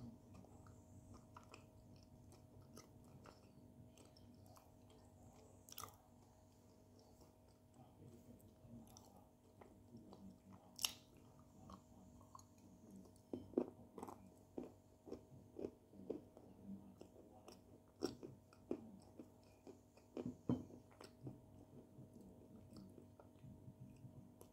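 Biting and chewing of crunchy clay chunks: sharp snaps as pieces break off between the teeth, then a run of crunches at about two a second in the middle of the stretch.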